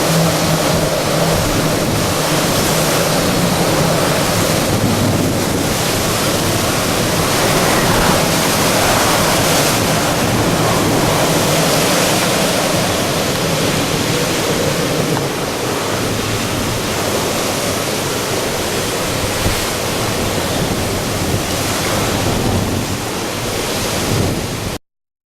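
Strong typhoon wind, a loud steady rush of noise that rises and falls a little and cuts off suddenly near the end.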